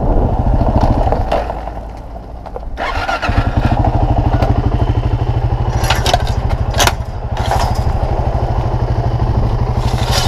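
Small off-road vehicle engine running with a steady putter. It drops off for about a second around two seconds in, then picks up again. A few sharp clatters come through near the seven-second mark.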